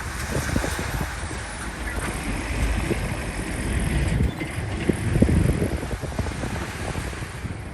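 Bulldozer's diesel engine running, with wind buffeting the microphone.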